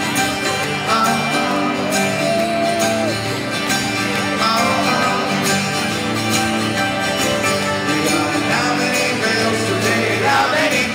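Live band playing an instrumental passage of a mid-tempo rock song, guitar to the fore, with steady sustained notes.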